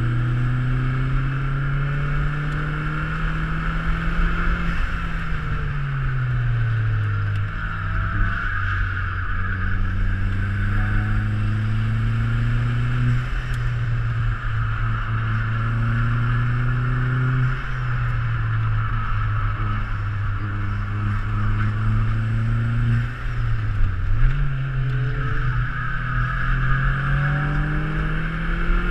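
Opel Speedster Turbo's turbocharged 2.0-litre inline-four engine heard from the open cockpit while being driven hard on a track. The pitch climbs steadily under acceleration and drops sharply at gear changes several times, with a longer fall and a dip-and-rise as the car slows for corners.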